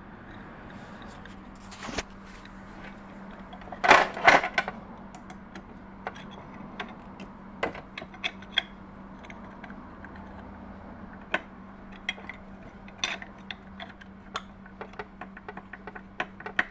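Plastic cover being fitted onto a Janome 393 sewing machine and screwed down: scattered clicks and taps of plastic and a screwdriver, with a burst of louder clattering about four seconds in, over a steady low hum.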